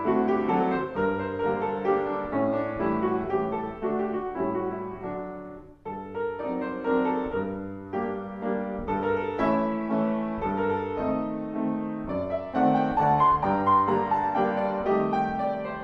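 Piano music playing: a lively classical piece with quick, dense notes, breaking off briefly about six seconds in before carrying on.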